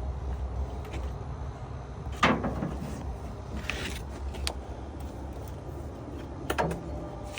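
Hand-handling noises from spark plug wires being routed and fitted: a sharp click about two seconds in, then a few lighter clicks and rustles, over a steady low rumble.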